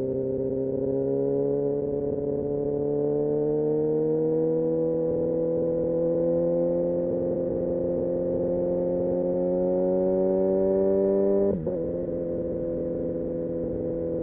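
Kawasaki Ninja ZX-6R inline-four engine pulling steadily under light throttle, its pitch climbing slowly as the bike gains speed. About three-quarters of the way through, the engine note breaks sharply and settles a little lower, then holds steady: an upshift into the next gear.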